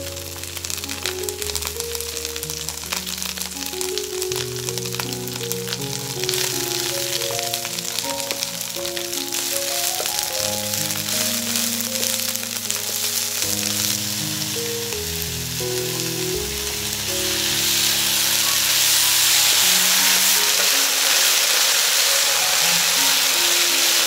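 Coriander stir-frying in hot oil, sizzling as a wooden spatula tosses it around the pan, with a few scrapes and taps. The sizzle grows louder about two-thirds of the way through. Soft background music plays throughout.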